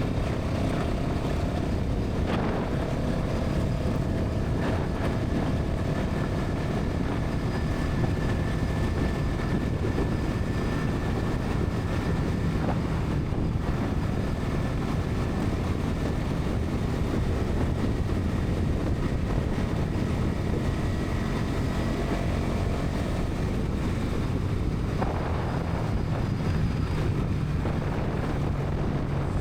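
Bajaj Pulsar NS 200's single-cylinder engine and exhaust running steadily at highway speed, mixed with wind noise on the microphone.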